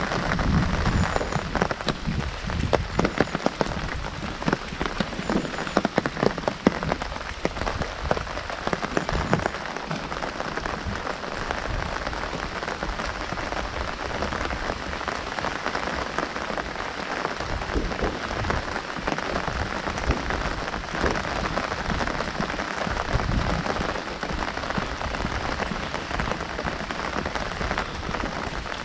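Heavy rain drumming on an umbrella overhead: a dense, steady patter with many sharp individual drop strikes, more pronounced in the first ten seconds or so.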